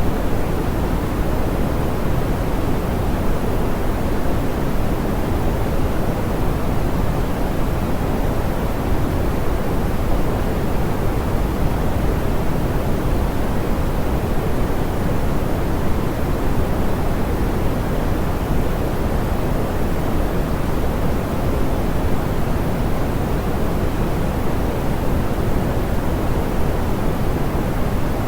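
Steady, smoothed pink noise: an even hiss that leans to the low end, with the highs rolled off above about 2 kHz.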